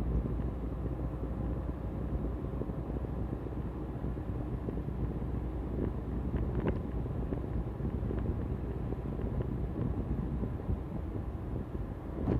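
Car cabin noise while driving: a steady road and engine rumble with a faint, steady electrical-sounding noise from the air-conditioning system. The noise goes away with the A/C or idling-stop engaged, and the owner suspects the expansion valve.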